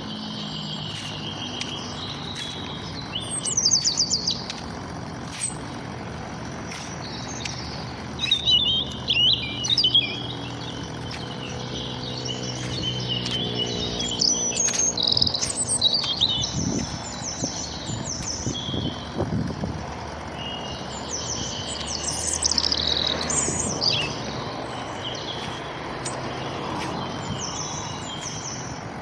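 Several small songbirds chirping and trilling in short, overlapping bursts, with louder bouts several times. A low steady hum lies underneath through the first half.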